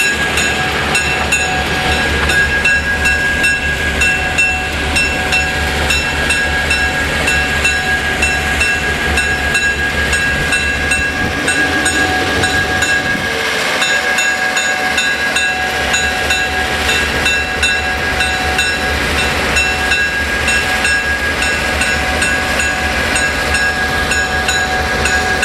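Freight train rolling past: a steady rumble of the train with a continuous high-pitched whine over it and faint, evenly repeating ticks.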